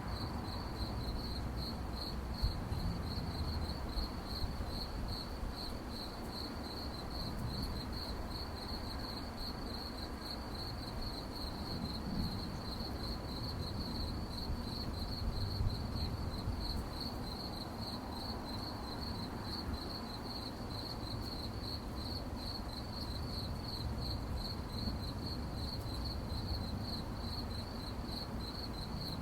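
Crickets chirping at night in a fast, even, unbroken pulse, with a low steady rumble underneath.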